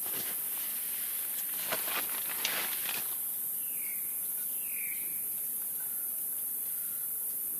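Outdoor ambience with a steady high hiss, like an insect chorus. A few rustling steps come in the first three seconds, then a bird gives two short chirps.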